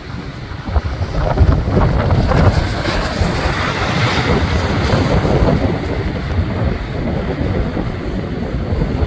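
Wind buffeting the microphone over the rush of Pacific Ocean surf breaking on rocks, with a louder, hissing surge of surf about three seconds in.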